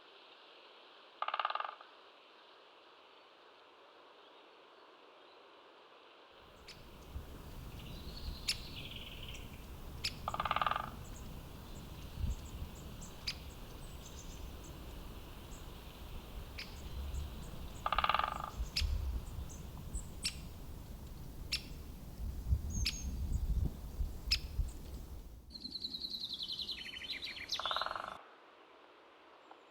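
Birds calling outdoors: a short call repeated four times, about every eight seconds, with a few higher chirps. For most of the middle there is a low rumble with scattered sharp taps.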